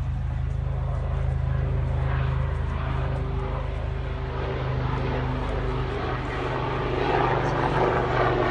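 A low, steady engine drone, which grows into a louder rushing noise near the end.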